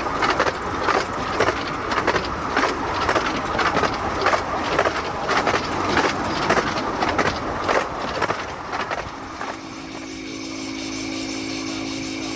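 A 15-inch gauge miniature railway train in motion, heard from a carriage, with wheels and track clattering in a regular beat about twice a second. About nine and a half seconds in, this gives way to a steadier, quieter sound with a few held tones.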